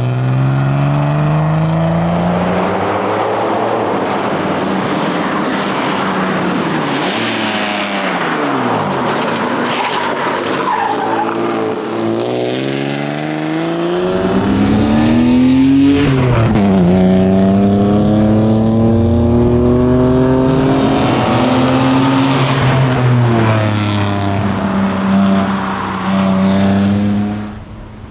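1990 BMW 325i's straight-six engine driven hard, revving up repeatedly and dropping back with gear changes and lifts, with tyre noise underneath.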